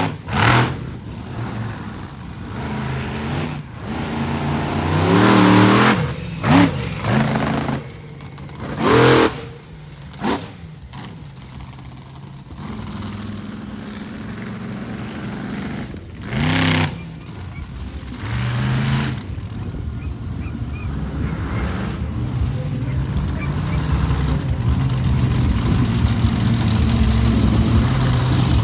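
Monster truck engine running with several short, sharp revs, then building steadily louder near the end.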